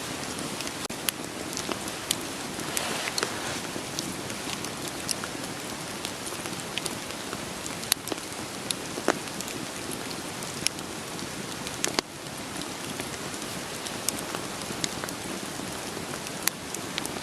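Steady rain with a wood fire crackling, sharp pops and snaps scattered irregularly over the even hiss of the rain.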